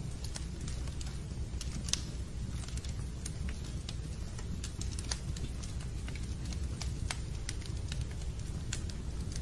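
Wood fire crackling in a fireplace: a steady low rumble with irregular sharp pops and snaps, one louder snap about two seconds in.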